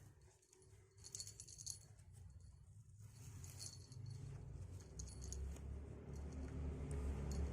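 Faint handling sounds of a bird anklet and jesses being fitted: short bursts of light clinking and rustling, several times, over a low rumble that grows louder partway through.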